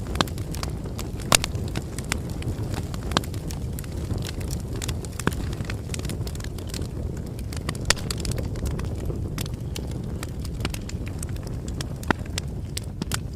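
Bonfire burning, with a steady low rumble of the flames and irregular sharp crackles and pops of burning wood, a few of them louder than the rest.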